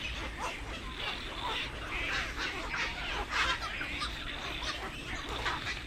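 A colony of black-crowned night herons calling, many short harsh calls overlapping without pause.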